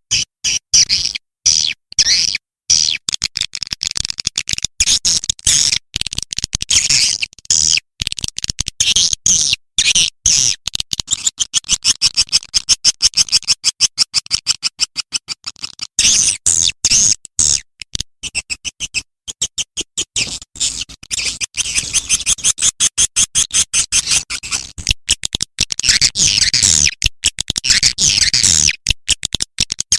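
Swiftlet call-sound recording: rapid, dense trains of high twittering chirps and clicks from swiftlets, the kind of lure track played to draw swiftlets into a swiftlet house. The pattern changes about halfway through.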